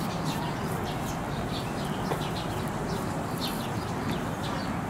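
Birds chirping, many short high calls scattered through, over a steady low background noise.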